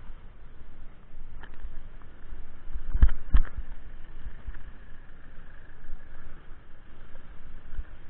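Low rumble of wind and road noise from riding, with scattered knocks and two sharp ones about three seconds in.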